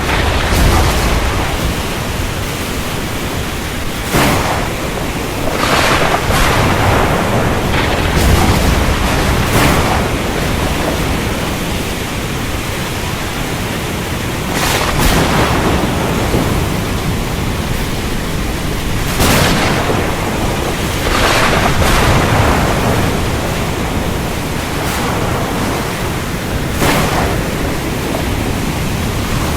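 Steady heavy rain in a thunderstorm, with a dozen or so short, sharp thunder cracks scattered through it and low rumbling underneath.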